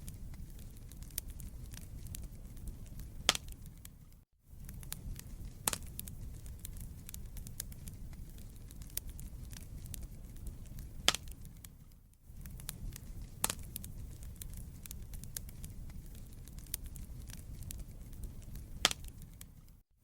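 Wood fire in a fireplace crackling, with scattered sharp pops of the burning logs over a low steady rumble of the flames. The sound drops out briefly about every eight seconds.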